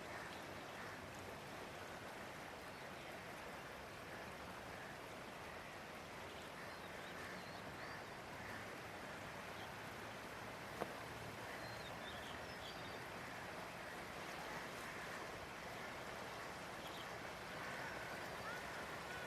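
Steady rushing of a swollen, flooded river, with faint short chirps above it and a single sharp click about eleven seconds in.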